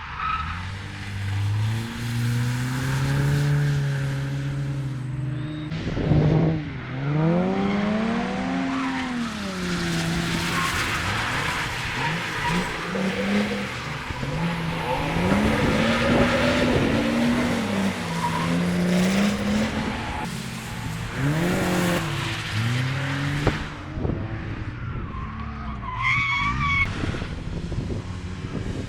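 Drift car's engine revving up and falling back again and again as the car is held in a slide, with tyre squeal through the middle of the run.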